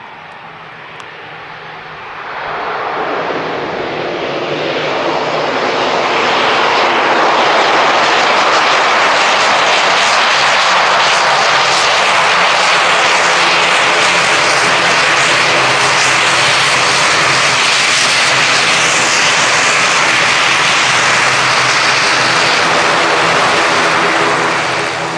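ATR 42-600's Pratt & Whitney PW127M turboprop engines and propellers during landing. The sound swells sharply about two seconds in, holds loud and steady as a hiss over a low hum of propeller tones, and drops back near the end.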